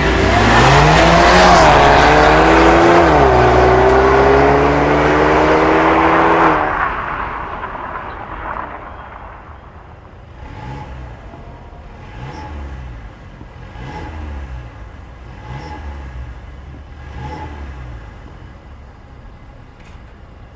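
Mercedes-Benz CLA250's 2.0-litre turbocharged four-cylinder engine through a valved catback exhaust. For several seconds it runs loud, its note climbing quickly and then holding steady, before dropping away. It then gives five short throttle blips about every second and a half with the exhaust valve closed, a muted, restrained note.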